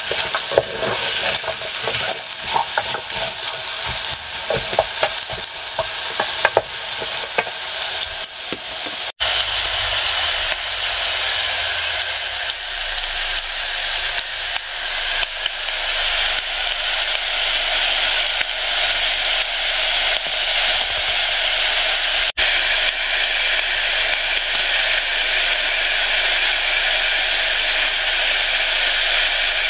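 Bacon, carrot and onion frying in a Trangia pan: a wooden spoon stirs and scrapes the food over the sizzle for about the first nine seconds, then a steady sizzle.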